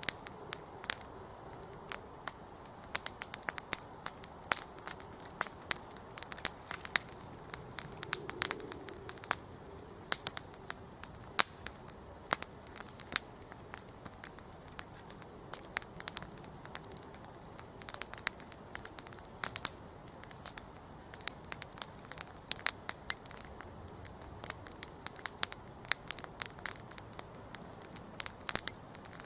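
Wood campfire burning, with many sharp irregular crackles and pops over a soft, steady hiss of flame.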